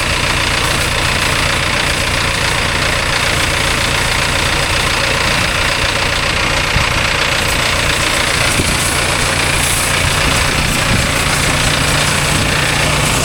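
An engine running steadily at idle, with an even hiss over it.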